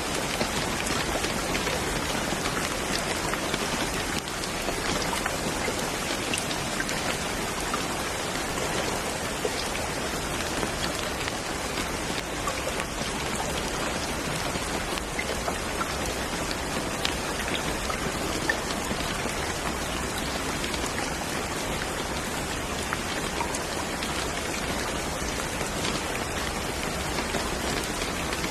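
Steady rain, with many small drops ticking on a surface over an even hiss.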